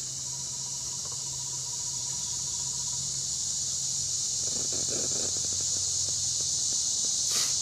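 A steady high chorus of insects (crickets and similar) buzzing through the woods. Brief rustling about two-thirds in, and a single sharp click near the end.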